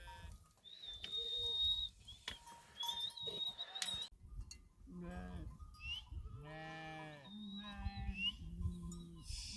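Livestock bleating: several wavering calls, one after another, from about halfway through. In the first half there is a thin, high, steady tone.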